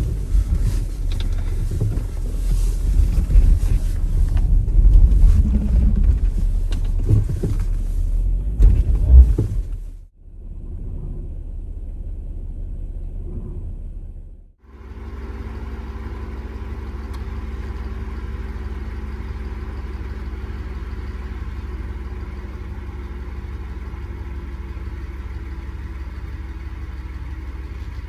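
Jeep Wrangler on the move: a loud, uneven rumble that cuts off about ten seconds in. After a short quieter stretch, a steady engine hum carries on from about fifteen seconds in.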